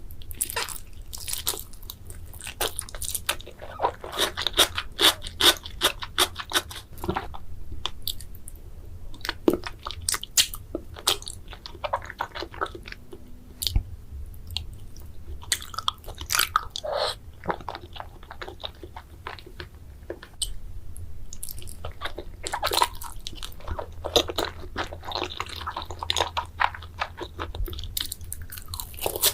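Close-miked ASMR eating sounds of sushi: wet chewing with many small crunches and clicks, in irregular clusters.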